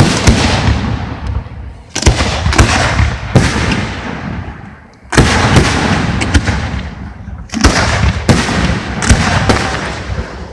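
Aerial fireworks shells bursting: a run of loud bangs in clusters, each followed by a long rumbling echo that dies away.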